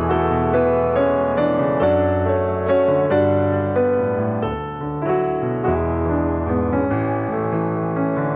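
Piano music: a slow run of single notes over sustained low bass notes.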